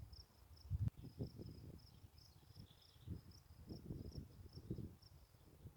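High-pitched insect chirping, short evenly repeated chirps about four a second, with irregular low thumps and rustles close to the microphone.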